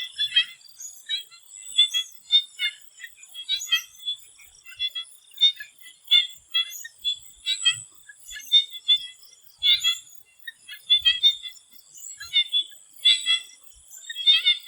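Swamp frogs calling in a dense chorus of short, repeated high-pitched calls, several a second, over a steady high-pitched hum.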